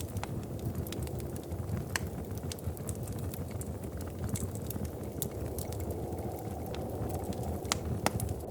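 Wood fire crackling in a fireplace: scattered sharp pops and snaps over a steady low rumble, with the loudest pops near the end.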